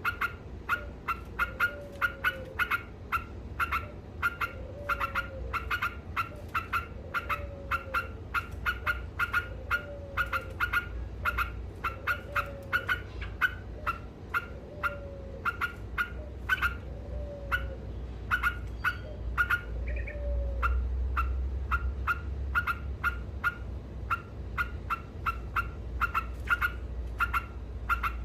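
Yellow-vented bulbul (trucuk) in vigorous chattering song, a fast, even run of short sharp notes at about three a second. A lower, downward-sliding call repeats alongside at a slower pace and stops about 20 seconds in, over a steady low rumble.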